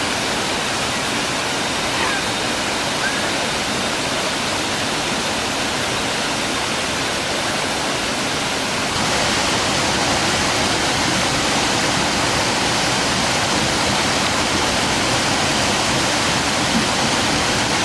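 Rushing water of a highland stream and waterfall: a steady, even hiss that gets a little louder about halfway through.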